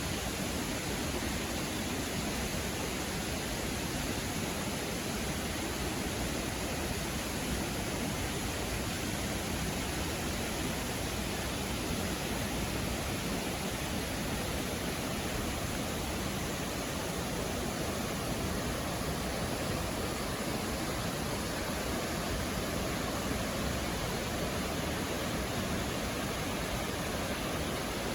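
A 32-metre waterfall plunging into a river gorge: a steady, unbroken rush of falling water.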